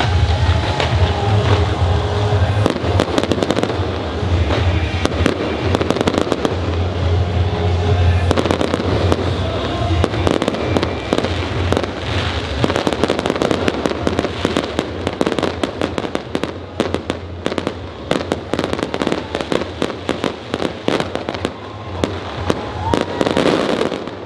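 Dense, rapid crackling pops and bangs over a steady low rumble, with music in the mix.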